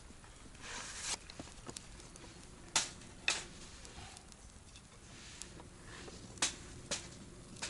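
A few sharp, isolated clicks and knocks over a faint steady hiss, with a short rustling swell about a second in.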